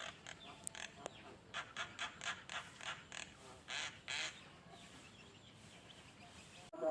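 A songbird giving a run of short, harsh chattering notes, several a second, that stop about four seconds in.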